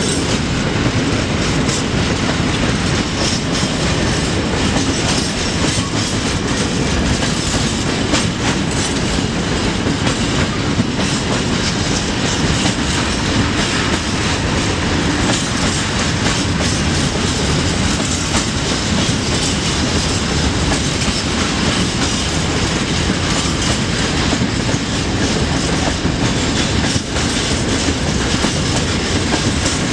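Long freight train of open-top wagons passing close by at speed: a steady rumble of wheels on the rails, with a continuous run of clicks and clatter from the wheelsets.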